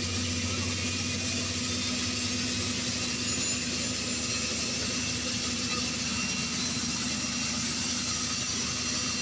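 Black Hawk helicopter's turbine engines running steadily on the ground, with a steady high whine over a low hum; the lowest part of the hum drops away about three seconds in.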